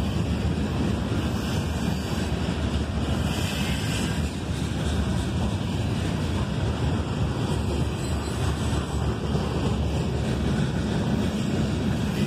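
Freight train cars (covered hoppers, a boxcar and tank cars) rolling past on steel wheels and rails, making a steady low rumble.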